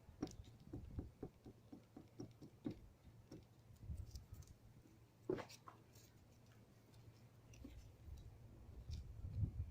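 Light, irregular tapping and clicking, about three or four taps a second at first, then sparser with one sharper click about five seconds in: a brush dabbing fibreglass resin onto glass-fibre strands.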